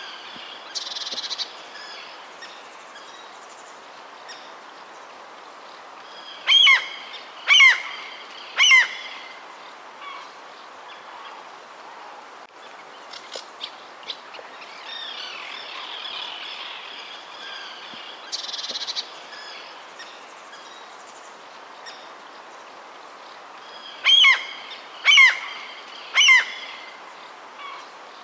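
Outdoor chorus of small birds chirping steadily, broken twice by a louder bird calling three times about a second apart.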